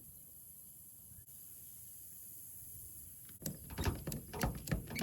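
A bicycle strapped onto a truck's roof knocking and rattling in a quick irregular run of about two seconds, starting about three and a half seconds in, as it is shaken to test that it is held firm. Before that, crickets chirp faintly and steadily.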